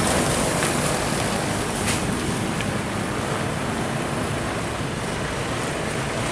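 Diesel truck passing on the road: a steady rumble of engine and tyre noise that eases off slightly over a few seconds.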